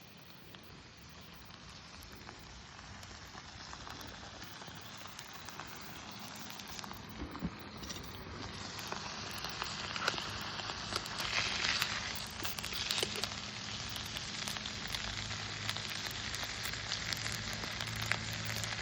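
Food sizzling over a campfire, with many sharp pops and crackles from the fire. The hiss grows steadily louder.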